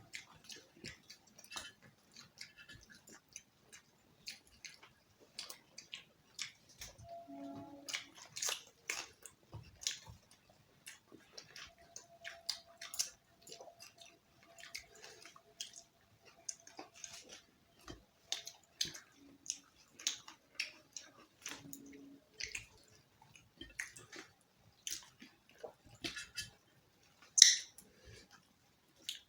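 Chewing and eating roti with chicken curry: a run of short, irregular mouth clicks and smacks, with one sharper, louder click near the end.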